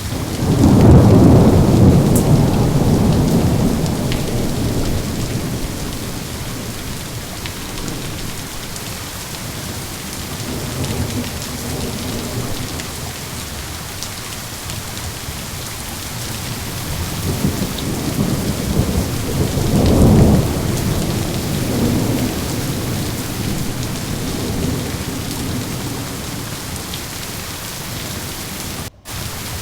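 Steady heavy rain with two rolls of thunder: one breaking right at the start and rumbling away over several seconds, another building to a peak about twenty seconds in. The audio cuts out for an instant just before the end.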